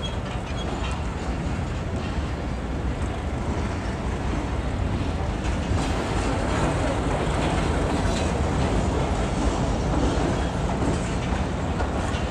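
Pakistan Railways passenger train rolling past on departure, a steady rumble with wheels clicking over the rail joints, growing slightly louder.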